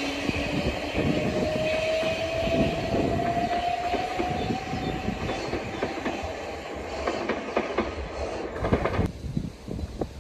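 Southeastern electric multiple-unit train running through on the rails, with wheels clacking over rail joints and a motor whine that rises slowly in pitch. It drops away sharply about nine seconds in.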